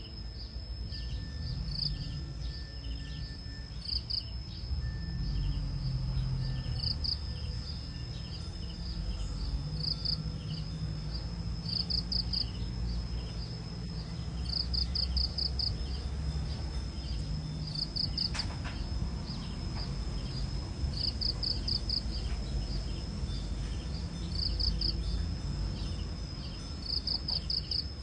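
Insects chirping: a steady high-pitched trill under short chirps of two to five quick pulses, repeating every couple of seconds, typical of crickets. A low rumble runs underneath.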